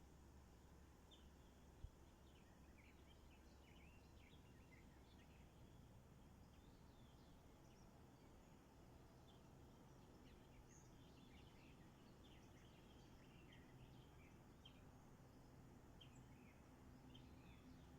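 Faint, distant songbirds chirping and twittering in many short high notes over a low, steady background rumble, with a single sharp click about two seconds in.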